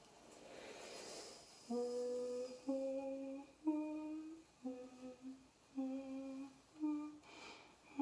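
A woman humming a slow lullaby-like tune, one held note after another, starting about two seconds in. Before it, a soft breathy hiss swells and fades, and another short one comes near the end.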